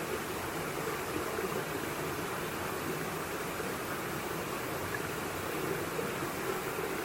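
Mountain valley stream, water rushing steadily with an even, unbroken hiss.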